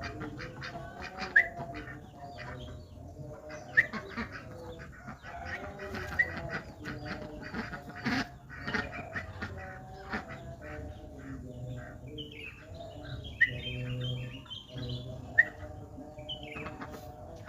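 Young yellow-vented bulbul chirping: about five short, sharp rising chirps a few seconds apart, with a flurry of calls near the end, over a background of other bird calls.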